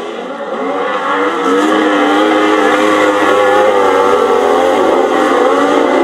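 Several grasstrack racing motorcycle engines running together, their pitches rising and falling as they rev and ease off.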